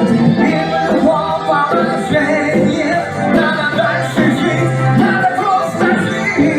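A band playing a song, with a singer over a steady bass line.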